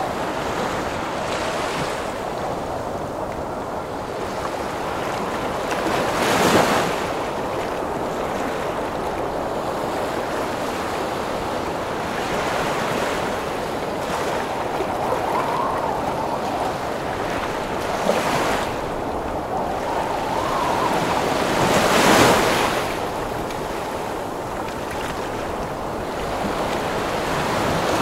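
Heavy sea waves and storm wind: a steady roar of surf, with three larger waves breaking, about six seconds in, around eighteen seconds and around twenty-two seconds. A faint wavering howl of wind rises and falls now and then.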